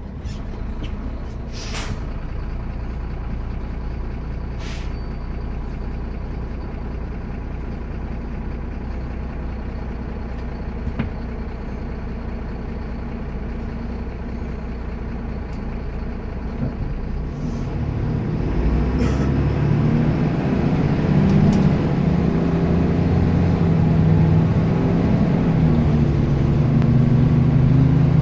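Diesel bus engine idling, with two short air-brake hisses near the start. About two-thirds of the way through it revs up and grows louder as the bus pulls away.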